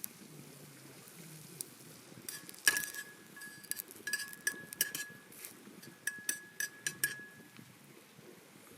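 Camp cookware or tableware clinking together, a string of light knocks over several seconds, many leaving a brief clear ring.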